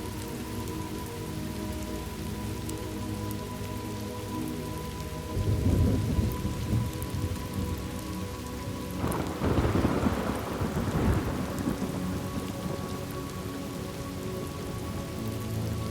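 Thunderstorm ambience: steady rain with two rolls of thunder, a short one about five seconds in and a longer, louder one from about nine to twelve seconds in.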